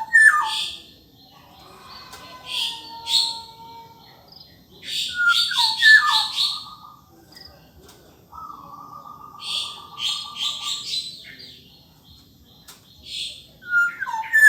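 Black-naped oriole singing: short fluty whistled phrases that drop in pitch, repeated three times several seconds apart, with harsh scratchy notes between them and a longer level whistled note in the middle.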